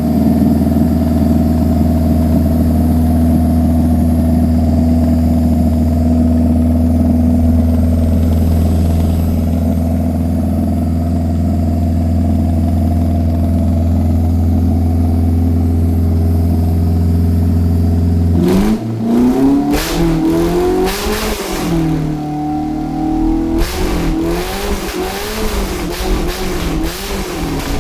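Suzuki M18 inline-four engine running at a steady idle, then from about 18 seconds in revved repeatedly in short throttle blips, its pitch rising and falling.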